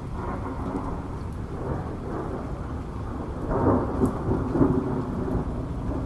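Thunder rumbling through steady heavy rain, the rumble swelling louder around the middle and easing off towards the end, with scattered raindrop ticks.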